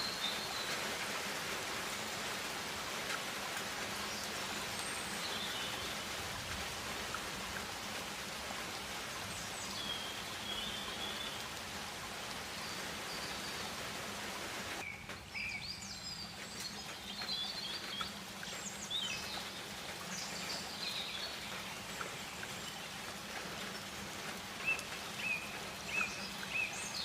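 Tropical rainforest ambience: a steady hiss, like rain or insects, with scattered bird calls. About halfway through the hiss drops away abruptly and short bird chirps and calls come more often, with a few repeated short calls near the end.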